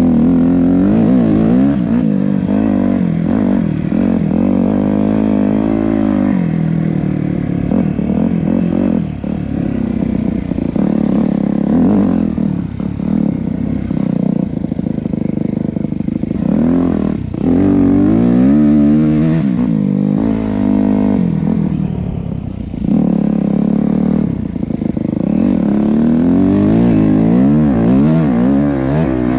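Yamaha YZ250F four-stroke single-cylinder dirt bike engine under way, revving up and easing off again and again as the throttle is worked.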